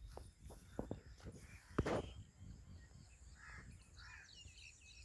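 Rural field ambience: birds calling, with a couple of soft calls and high chirps in the second half, over a low rumble. A few sharp clicks come in the first two seconds, the loudest just under two seconds in.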